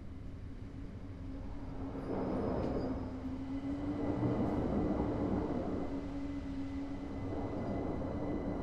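A steady low rumble with a droning hum running through it. It swells about two seconds in and eases off near the end.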